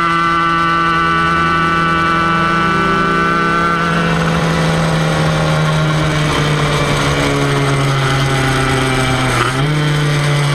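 Kreidler Van Veen 50cc two-stroke racing engine running at fairly steady revs. Its pitch drops a step about six seconds in and rises again near the end.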